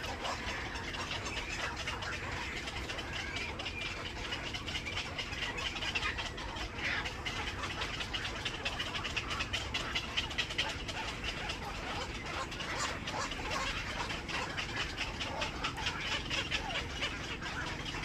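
Birds chattering and calling, with many rapid clicks, over a steady low rumble.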